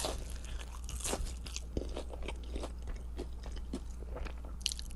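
Close-miked mukbang eating: irregular crunchy bites and chewing, many small crackles and clicks in quick succession.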